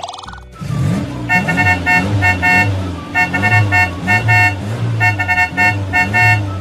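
Cartoon toy-car sound effect: an engine running with bursts of short horn toots in quick clusters, starting about a second in.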